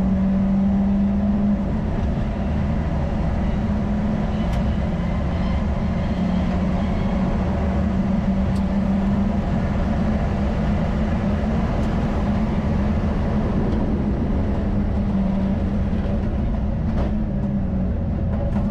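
Subaru Impreza Group N rally car's turbocharged flat-four engine running hard at high road speed, heard inside the cabin together with tyre and road noise. The engine note stays loud and steady, with small shifts in pitch.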